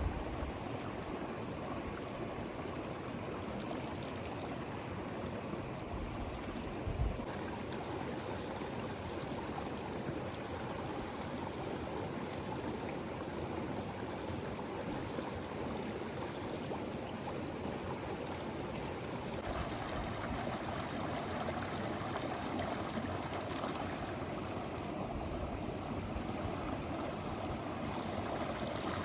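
A river flowing, a steady rush of water, with one brief low bump about seven seconds in.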